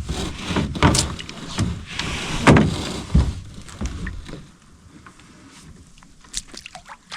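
Knocks, thumps and scrapes on a canoe hull as a paddler climbs out at the shore, an irregular run of them over the first four seconds, then quieter with a few small clicks.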